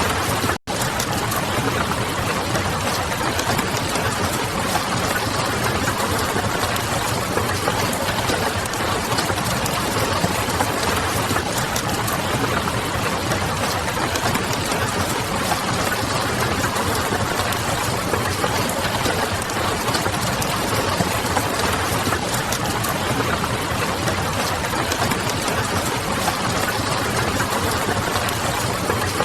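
Steady, dense rain noise mixed with the small crackles of a wood fire. The sound cuts out completely for a split second about half a second in.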